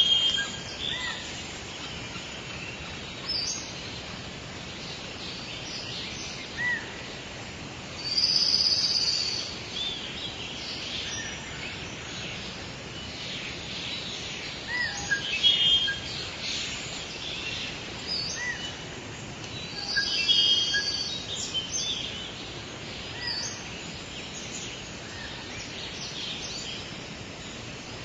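Wild birds singing and chirping over a steady background hiss of outdoor ambience, with louder bouts of song about a third, half and two thirds of the way through.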